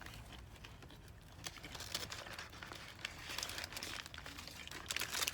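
Sandwich wrapper crinkling and rustling as it is handled, with scattered crackles that are loudest near the end.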